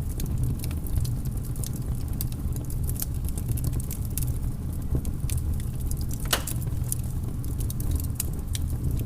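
Campfire crackling: frequent irregular snaps and pops over a steady low rumble, with one louder pop about six seconds in.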